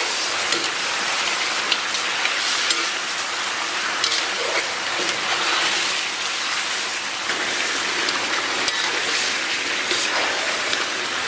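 Beef rib chunks sizzling steadily in a hot wok as they are stir-fried in soy sauce, with scattered clicks from the metal ladle stirring them.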